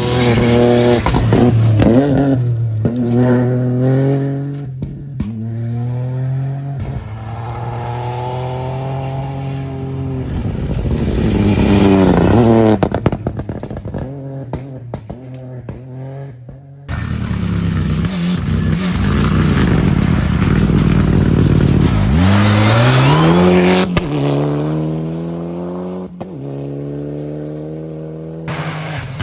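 Rally cars on a gravel stage going by at full throttle, engines revving up through the gears with each shift dropping the pitch, and gravel spraying and stones clattering as they pass. Two passes, with an abrupt change from one car to the next about 17 seconds in.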